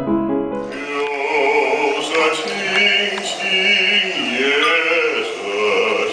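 Background music: a piano piece cuts off about half a second in, and a slow Chinese art song begins, a sustained male voice singing with a wavering vibrato.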